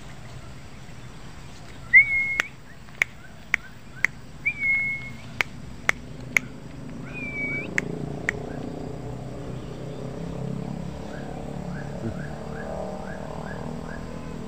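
Birds calling in open country: three short, high whistled notes with sharp clicks between them, then a run of faint short chirps.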